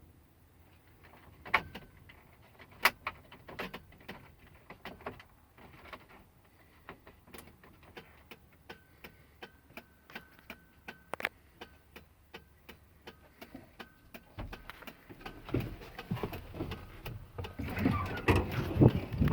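Irregular sharp clicks and knocks, two loud ones early, with a faint steady high tone in the middle, then louder clattering and thumps near the end.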